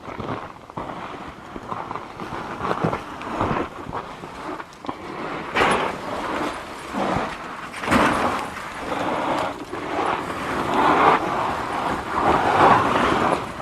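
Car driving, heard from inside the cabin: uneven road and tyre noise with scattered knocks, growing louder toward the end.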